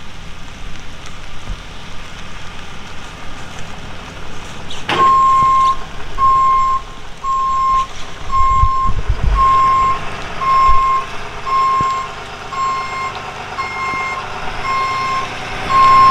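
A truck's backup alarm beeping steadily, a little faster than once a second, starting about five seconds in over an engine running and rain hiss.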